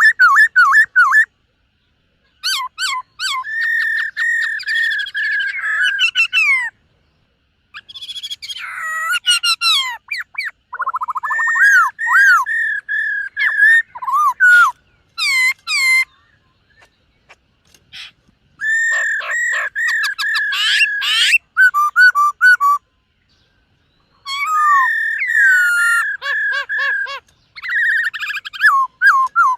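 Black-throated laughingthrush singing loud phrases of rich whistled and warbled notes, with rapid repeated notes, each phrase a few seconds long with short pauses between.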